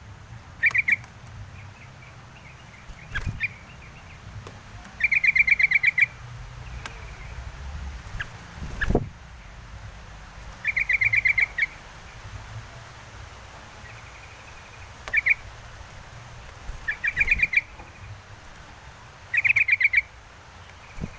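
Yellow-vented bulbul (trucukan) calling: short bursts of rapid bubbly chattering notes, repeated about seven times a few seconds apart. A single low thump about nine seconds in.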